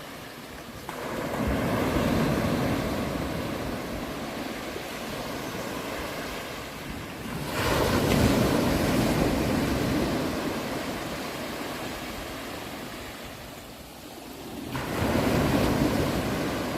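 Sea waves breaking on a shore: three swells of surf about seven seconds apart, each rising to a rush and then washing away.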